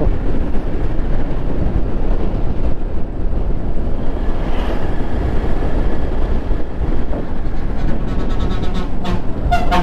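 Motorcycle riding along at road speed: engine rumble mixed with steady wind rush buffeting the microphone.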